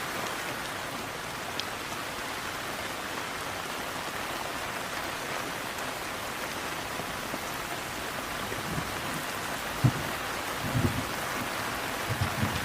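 Steady rain falling, an even hiss of drops on surfaces. In the last few seconds, short low rumbles and thumps break in a few times.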